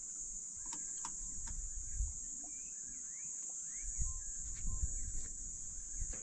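Outdoor ambience: a steady, high-pitched insect trill runs throughout, with birds chirping in short, rising and falling notes over it. A few light clicks or taps come in the first second and a half.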